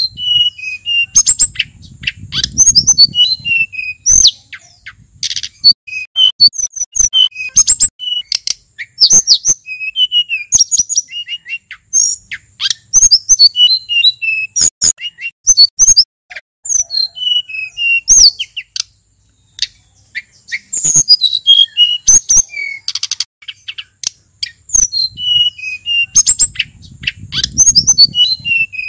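Male sulingan gunung songbird singing a fast, varied song of short high chirps and trills, close to the microphone.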